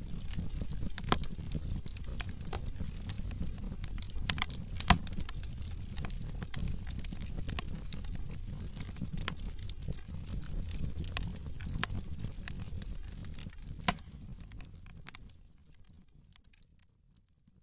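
Wood fire burning in a fireplace: dense crackling with a few sharper pops over a low rumble of flames. It fades out over the last few seconds.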